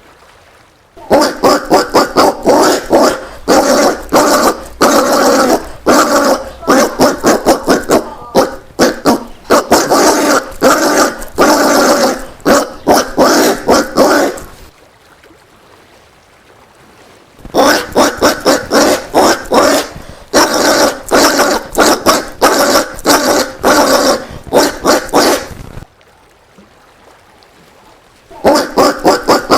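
Collared peccary (caititu) grunting and barking in rapid, loud series. The calls come in three long runs broken by pauses of a few seconds.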